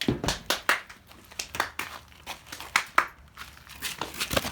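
Handling noise from a phone recording inside a pocket: cloth rubbing and scraping over the microphone, in an irregular run of short rustles and knocks.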